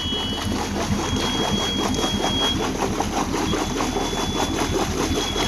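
Yanmar marine diesel idling steadily with a rapid, even knock just after a cold start. This is the boat's port engine, with the starboard one not yet running. A faint high whine comes and goes above it.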